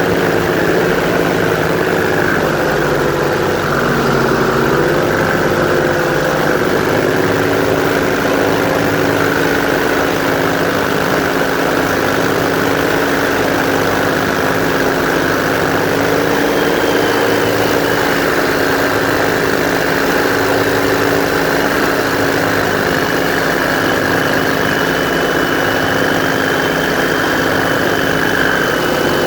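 Airboat's engine and propeller running loud and steady, its pitch shifting slightly a few seconds in and then holding.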